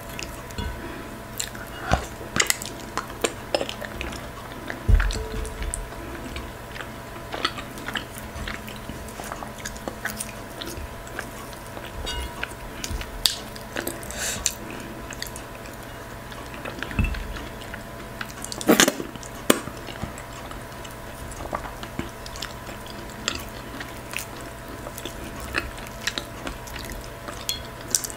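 Close-miked eating sounds: irregular wet chewing and mouth smacks as fufu, okra stew and goat meat are eaten by hand, with sticky squishes of fingers working in the stew. One louder smack comes about two-thirds of the way through, over a faint steady hum.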